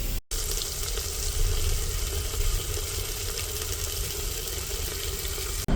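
Steady sizzling of food frying in a pan, with a low rumble underneath.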